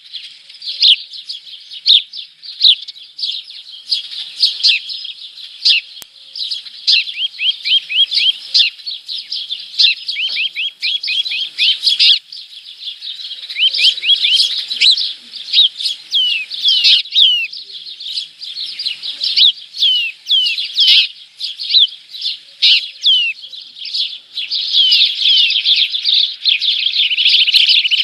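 Small birds chirping rapidly and almost without pause, in quick high chirps and short descending trills. The chirping becomes denser and more continuous in the last few seconds.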